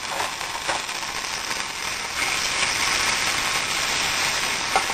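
Garlic and anchovy fillets sizzling in hot olive oil in a steel frying pan, with a few small crackles; the sizzle grows a little louder about two seconds in.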